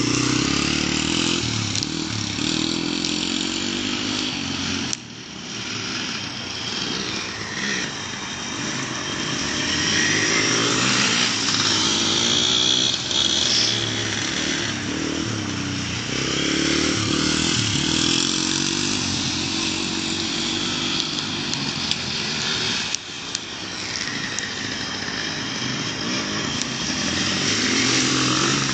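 Motorbike engines running and revving, their pitch rising and falling; the sound drops briefly twice, about five seconds in and again later on.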